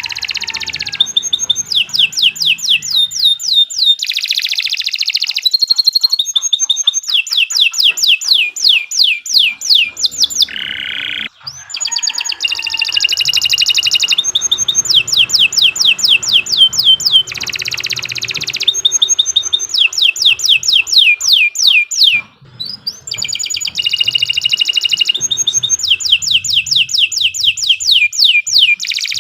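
Domestic canary singing a long, loud song: fast rolling trills of repeated high, downward-sweeping notes, switching from one phrase to the next every second or two, with two brief pauses.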